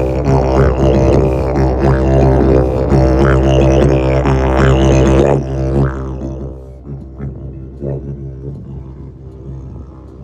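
Didgeridoo playing a steady low drone with rhythmic sweeping overtones, stopping a little over halfway through; fainter scattered sounds follow.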